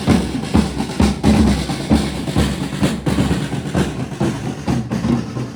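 Marching procession drums beating, snare and bass drums together in a continuous run of strikes.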